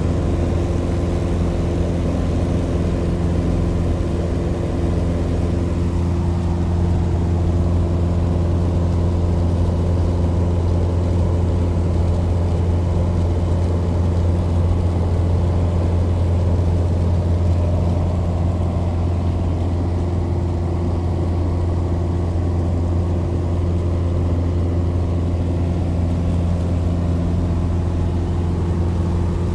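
Legend Cub light aircraft's piston engine and propeller running steadily at constant power.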